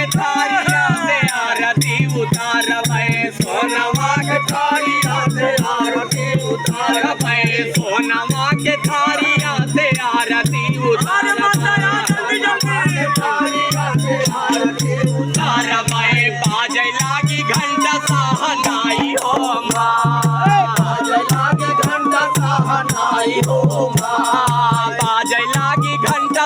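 Devi pachra devotional folk music: pitched lines that bend like singing voices, over a steady low drum beat and constant jingling, rattling percussion.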